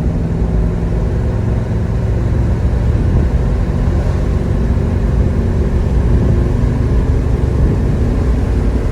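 1970 Chevelle SS 396 V8 running steadily while the car is driven, with wind and road noise, heard from inside the car with the windows down.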